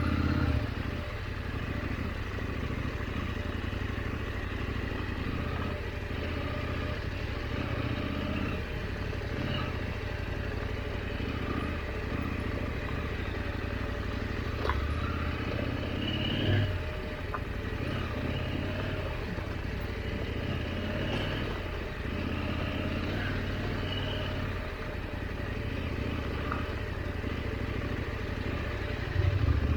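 KTM 890 Adventure's parallel-twin engine running at low trail speed, the throttle opening and easing off every few seconds. A couple of short knocks come about halfway through.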